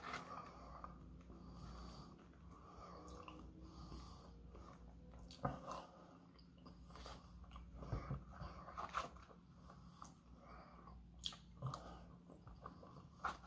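Faint chewing and breathing of a person eating poutine with a plastic fork, with a few short scattered clicks and taps from the fork and paper container.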